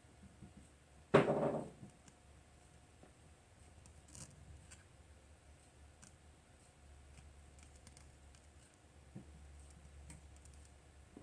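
A single sharp knock or clatter about a second in, dying away quickly, then a few faint small clicks from handling things on a workbench.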